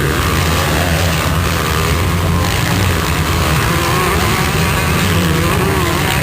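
Motocross motorcycle engines running, their pitch rising and falling as they rev.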